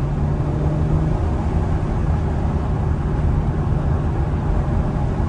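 2021 Acura TLX Type S's turbocharged V6 running at a steady cruise, its exhaust drone mixed with wind and road noise coming in through the open windows.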